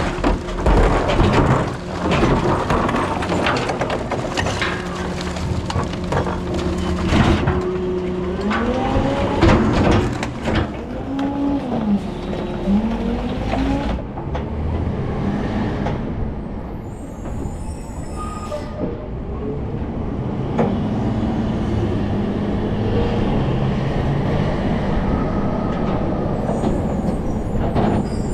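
Rear-loader recycling truck running, with a steady engine hum, repeated clanks and bangs in the first half, and a run of short rising-and-falling squeals about ten seconds in.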